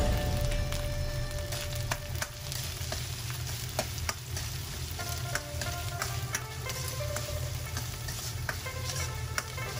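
Mapo tofu ingredients sizzling as they fry in a pan while being stirred, with irregular sharp clicks of a utensil against the pan.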